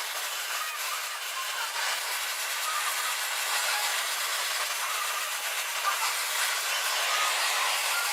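Gas torch flame hissing steadily as it heats a steel spacer ring on an old crankshaft so the ring can be knocked off.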